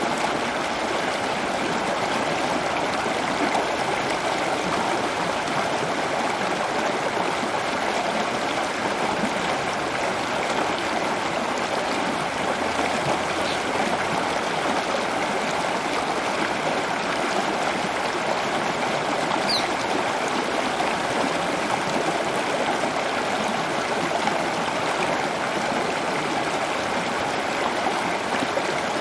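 Running water, a steady stream-like rush and trickle that never lets up.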